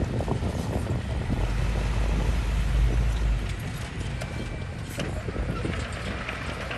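Heavy diesel machinery engine running with a low rumble that swells for a couple of seconds in the middle, with a few scattered clicks and knocks.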